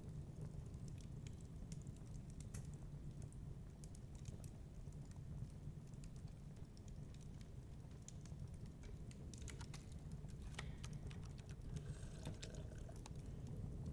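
Wood fire crackling in a fireplace: irregular sharp pops and snaps, thicker in the second half, over a steady low rumble.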